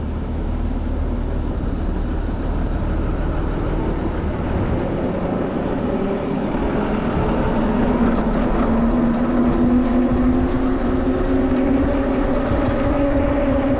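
Steady road and wind rumble with a vehicle's droning tone that comes in about halfway through and rises slightly in pitch.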